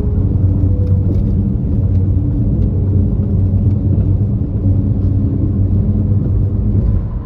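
A steady low rumble, like a car running, with faint held musical tones over it.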